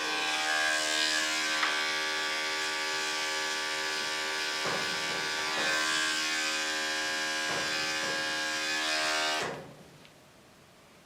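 Electric dog grooming clippers running with a steady buzzing hum, then switched off about nine and a half seconds in.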